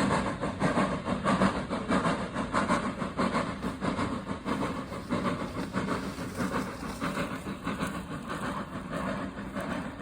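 A train running on the railway, with a continuous clatter of wheels on track over a low mechanical hum, slowly getting quieter.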